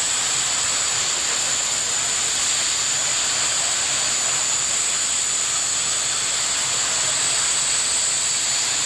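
Jet engine running steadily: a high, unchanging whine over a constant rushing hiss.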